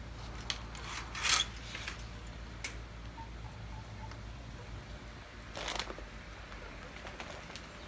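Two short rustling crunches, one about a second in and one near six seconds, with a few faint ticks in between, over a low steady hum.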